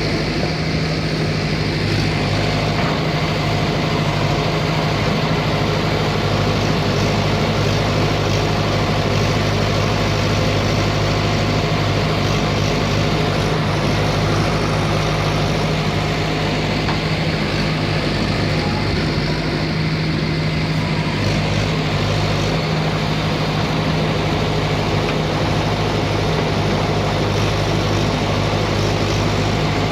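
ACE 6565 tractor's diesel engine running steadily.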